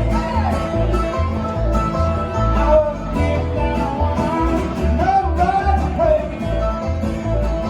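Bluegrass music: strummed acoustic guitar over a steady bass beat, with a singing voice carrying the melody.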